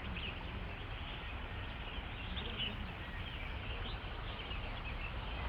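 Small birds chirping in short, scattered calls over a steady, even background hiss.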